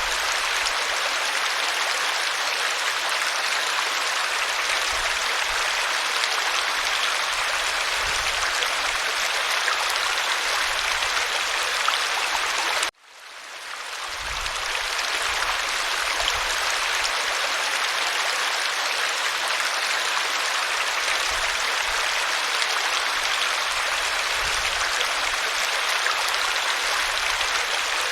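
Waterfall: a steady, even rush of falling water. About halfway through it cuts out abruptly and fades back in over a second or two, a break in the recording.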